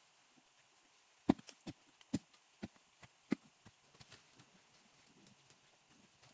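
A run of sharp, irregular knocks, about eight in under three seconds starting a little over a second in, then only faint ticks, over a faint steady hiss.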